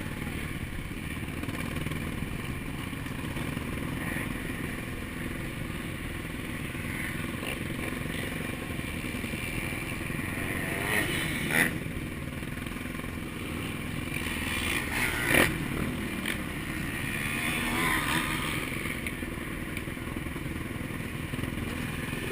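Honda 450 motocross bike's single-cylinder four-stroke engine running steadily, with two sharp knocks partway through, the second the loudest.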